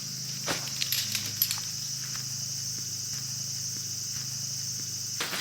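Insects chirring in a steady high drone, with a few light clicks in the first couple of seconds and a low hum underneath; the drone cuts off abruptly near the end.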